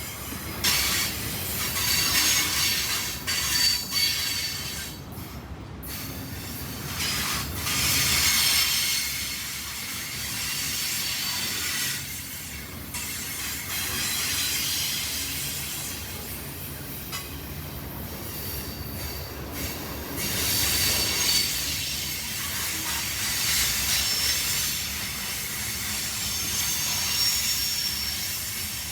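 CSX freight train cars rolling past at track side, with steel wheels squealing in thin high tones and scattered clicks over the rail joints.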